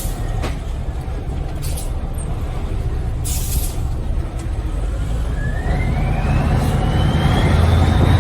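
Scania 143 truck's V8 diesel running on the road, with short air hisses near the start and about two and three and a half seconds in. From about two-thirds through, the engine pulls harder and gets louder under a rising whine.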